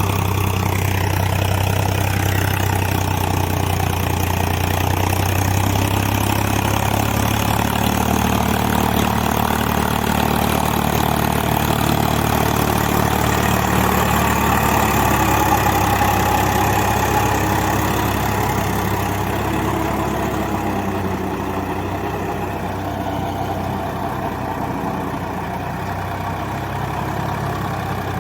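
Swaraj 744 FE tractor's diesel engine running steadily, working in mud. Its low note shifts a little about a quarter of the way in, and it eases slightly in loudness over the last third.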